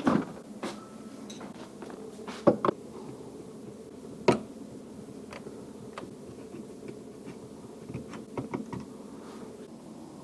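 A series of sharp knocks and clicks, the loudest near the start and about two and a half and four seconds in, with a cluster near the end, over a steady low hum.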